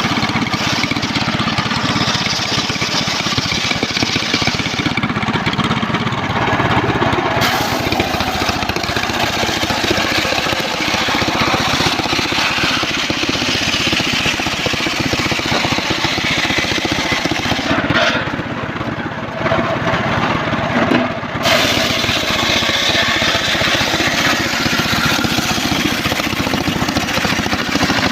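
Engine-driven circular sawmill running steadily while its blade rips a trembesi (rain tree) log into lumber. The high sawing noise drops away twice for a few seconds, about five seconds in and again near the middle-to-late part, while the engine keeps running.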